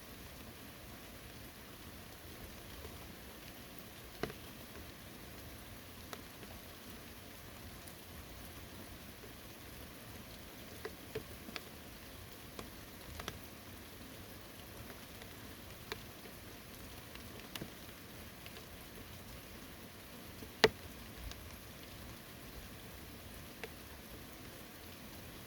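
Steady early-summer rain, an even hiss, with scattered sharper drops landing close by; one drop about two-thirds of the way through is much louder than the rest.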